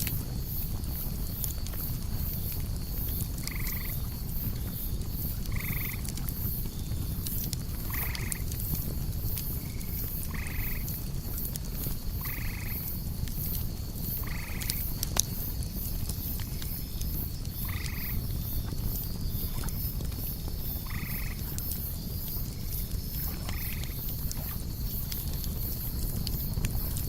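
Campfire crackling under a steady high insect chorus, as of crickets. A short animal call comes about every two seconds, ten times in all, and stops near the end.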